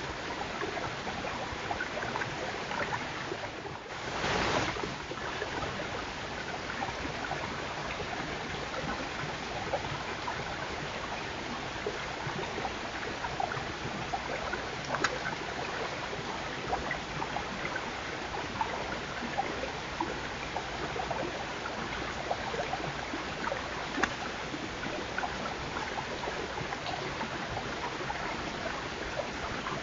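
Steady hiss of outdoor noise, like running water, with scattered small clicks and crackles and a brief louder rush about four seconds in.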